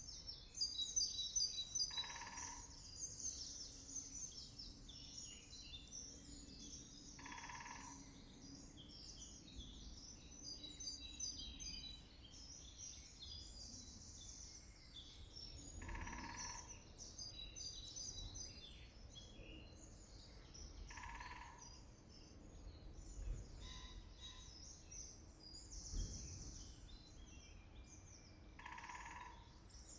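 A spring woodland chorus of many songbirds singing at once, continuous and overlapping high trills and warbles. Through it, one bird gives a short, lower call every five to eight seconds, about five times.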